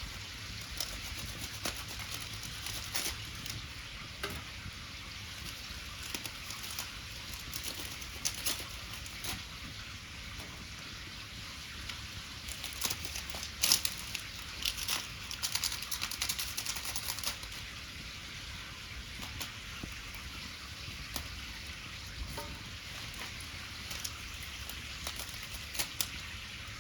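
Wood fire crackling: irregular sharp pops and snaps over a steady hiss, busiest about halfway through.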